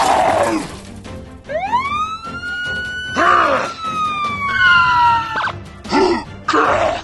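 Cartoon sound effects over background music: a whistle-like tone slides up about a second and a half in, holds, then slowly falls for several seconds, with short hits and springy boing-like sounds around it.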